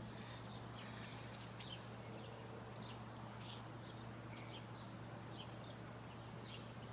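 Faint outdoor background with scattered short bird chirps and a steady low hum underneath.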